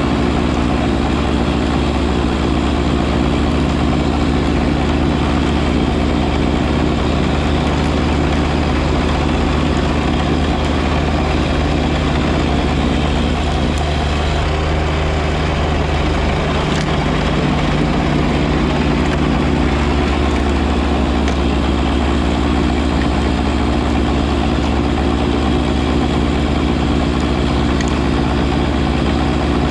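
John Deere 1025R compact tractor's three-cylinder diesel engine running steadily, with a slight shift in its note about two-thirds of the way through.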